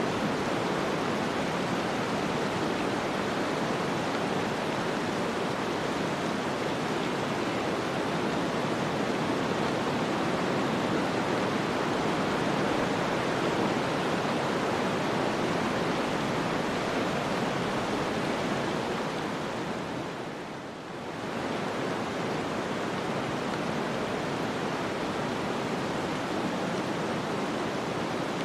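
Snowstorm wind blowing steadily as an even rushing hiss, dipping briefly about two-thirds of the way through and then rising back.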